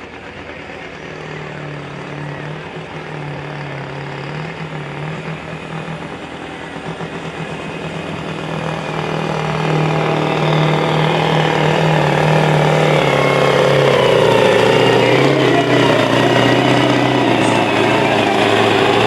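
Sport-class pulling truck's engine working hard under load during a pull, growing steadily louder, its pitch sinking slightly in the second half as it bogs down.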